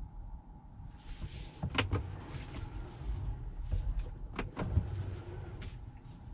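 Several sharp clicks and knocks over a rustling hiss, starting about a second in, as of a car door being opened and handled after parking.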